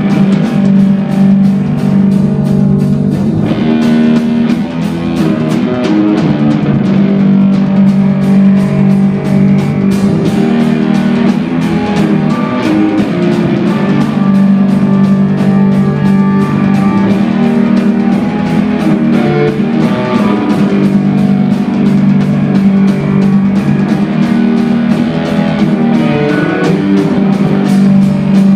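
Live instrumental rock band playing: drums hitting steady, rapid strokes under a loud sustained bass and dense held chords and lead lines.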